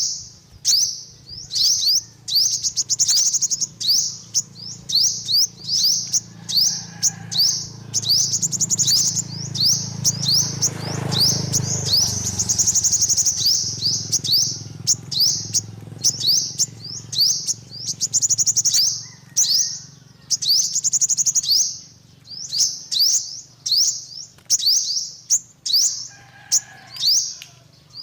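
Yellow-bellied sunbird singing: rapid runs of sharp, high chirps and short trills, repeated without pause. A low rumble rises under the song around the middle.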